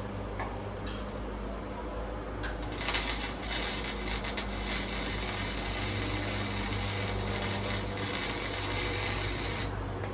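Welding arc crackling and hissing for about seven seconds on the truck's sheet-metal floor patch, starting about three seconds in and stopping suddenly near the end, over a steady electrical hum.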